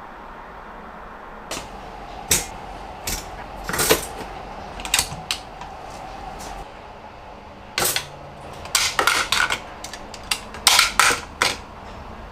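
Small boxes being handled and set down, giving irregular sharp taps, clicks and short scraping knocks in two busy spells, over a faint steady hum.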